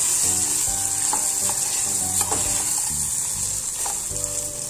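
Sesame paste sizzling in hot tempering oil in a steel pan while a metal spoon stirs it, the spoon scraping and clicking against the pan now and then.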